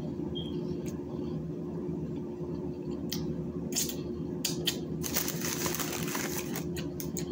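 Close-up mukbang eating sounds: a few sharp mouth clicks and smacks, and a rustle of food wrapper paper lasting about a second and a half, about five seconds in, over a steady low room hum.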